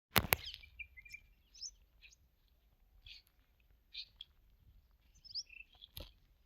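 Small birds chirping in short, scattered high calls, with two sharp loud clicks right at the start and another click near the end.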